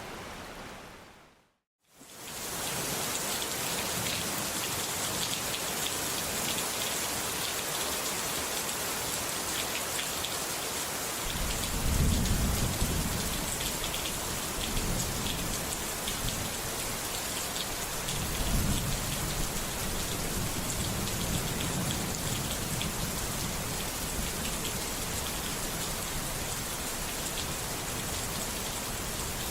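Steady rain falling, with deep thunder rumbling about a third of the way in and again a few seconds later. Near the start the rain fades out to silence for a moment and then resumes.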